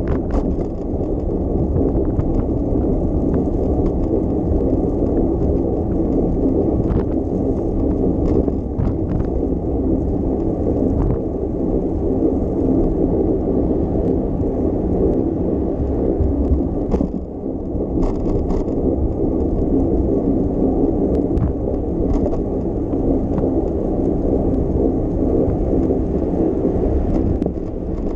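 Steady low rumble of wind on the microphone and tyres rolling over the road while riding a bicycle, with a few short clicks and rattles scattered through.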